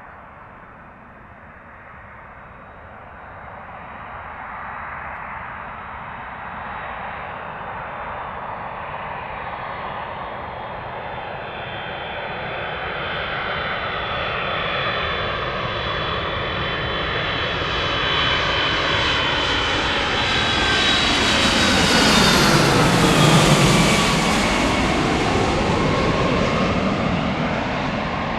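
Boeing C-32 (757-200) with Pratt & Whitney PW2000 turbofans flying past on approach to land. The jet noise grows steadily louder, with high whining fan tones that drop in pitch as it passes close by about two-thirds of the way through, then eases off.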